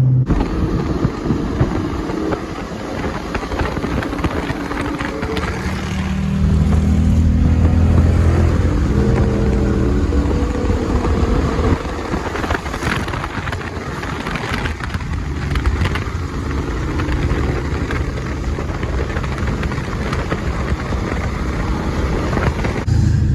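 Car engine running under steady road and wind noise while driving. The engine gets louder for a few seconds about six seconds in, then settles back.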